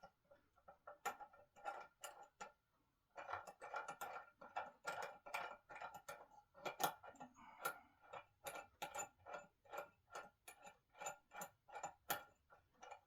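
Rapid, even clicking of a ratchet tool being cranked to tighten bolts on a solid-wood dining table during assembly, about three to four clicks a second, with a short pause about two and a half seconds in.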